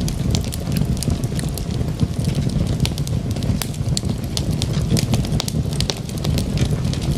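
Logs burning in a fireplace: a steady low rush of flame with frequent, irregular sharp crackles and pops from the wood, several a second.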